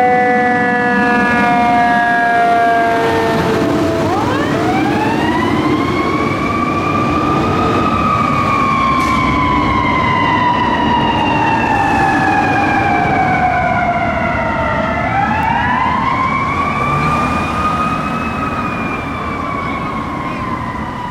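Fire apparatus mechanical siren, wound up and coasting down: a slow falling tone, then two long rising-and-falling wails. A fire truck's diesel engine runs underneath.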